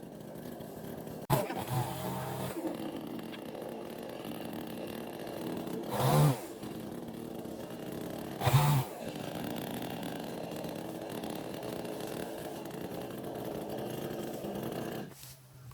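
Chainsaw engine running steadily. The throttle surges loudly three times: about a second in, then around six and eight and a half seconds. The engine cuts out shortly before the end.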